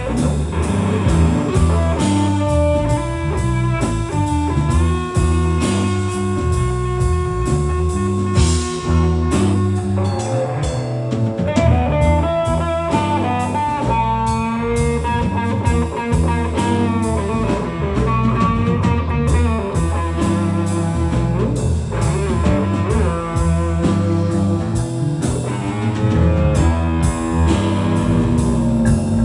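Live blues-rock band playing an instrumental passage: a lead guitar line with long held and bent notes over bass and drums.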